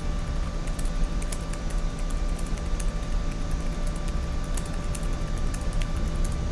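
Office ambience: a steady low hum with a faint constant tone over it, and scattered irregular clicks of computer keyboard typing.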